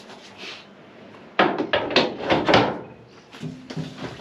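A quick run of sharp knocks and clatter from a fitting in the boat's cabin being worked open. It starts about a second and a half in and lasts about a second.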